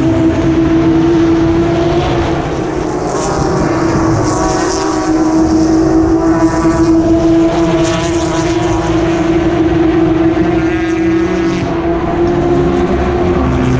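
Endurance race cars passing one after another at high revs, their engine notes overlapping into a continuous loud drone with brief swells as individual cars go by.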